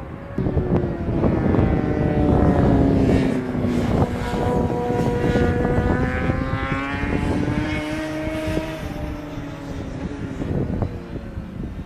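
Several cars' engines passing on a race circuit, their engine notes sinking and then climbing again as they go by. The sound comes up about half a second in and fades near the end.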